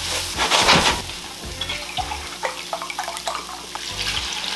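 Chopped onion and aromatics sizzling in a pot as they are stirred. The sizzle is loudest in the first second, then quieter, with scattered light clicks.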